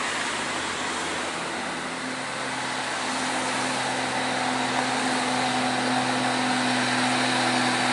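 Heavily loaded Nissan Euro diesel truck engine pulling hard up a steep climb at steady revs, the drone slowly growing louder.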